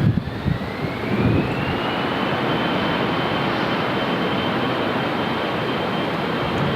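Jet airliner's engines running, with a thin turbine whine that rises in pitch over the first two seconds and then holds steady.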